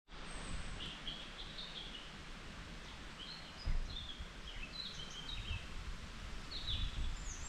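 Songbirds chirping in a forest: many short, quick chirps, some dropping or rising in pitch, over a low rumble. A single dull thump about halfway through.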